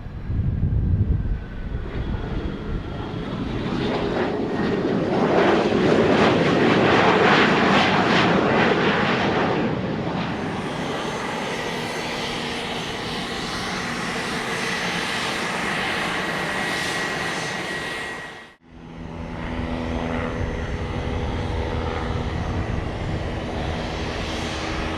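Fixed-wing aircraft engine noise that swells to a loud peak a few seconds in, then settles into a steady run with a high whine. About two-thirds of the way through it cuts off abruptly, and a second steady aircraft engine sound with a few held tones follows.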